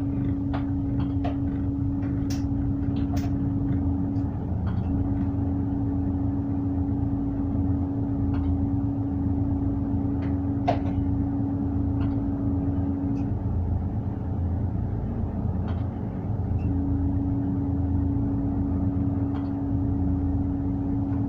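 Tug boat's diesel engine running steadily with a low drone, heard on board. A steady whine over it cuts out briefly about four seconds in and again for a few seconds around the middle, and faint clicks come now and then.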